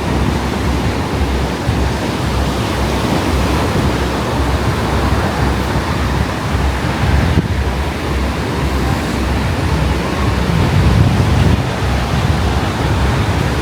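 Ocean surf breaking and washing on the beach, a steady rush, with wind buffeting the microphone.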